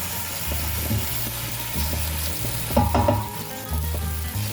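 Garlic frying in very hot oil in a cooking pot, a steady sizzle, with a utensil stirring and scraping the pot.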